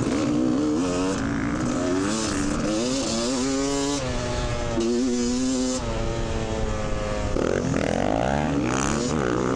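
Dirt bike engine being ridden, revving up and falling back over and over as the throttle opens and closes.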